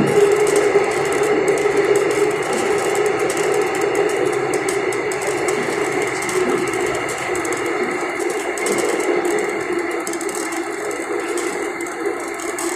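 Gyeongui Line electric commuter train running between stations. The steady tones of its Toshiba IGBT traction inverter sound over the wheel and track noise, the pitch drifting slightly and the level easing off slowly.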